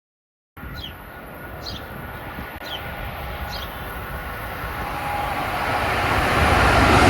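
A train approaching on the Northeast Corridor main line, its rumble and rail noise building steadily louder. Four short high falling chirps, about a second apart, sound in the first half.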